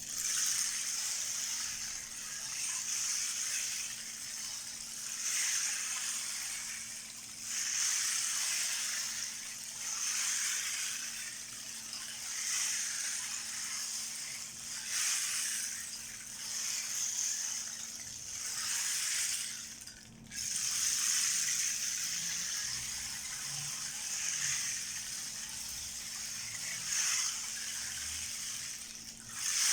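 12-inch rain disk being tilted so its beads roll and pour across it, giving a hissing, rain-like rush. The rush swells and fades in waves every couple of seconds and breaks off briefly about twenty seconds in.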